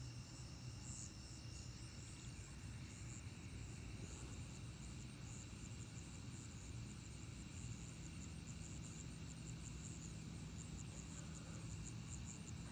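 Faint night insect chorus of crickets: steady high trilling with a rhythmic chirping pulse that settles into an even beat a few seconds in, over a low steady hum.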